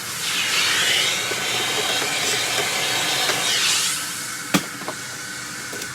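Vacuum cleaner running and sucking up debris, its rushing, hissing sound shifting as the nozzle is moved. The sound eases about four seconds in, and a sharp click follows.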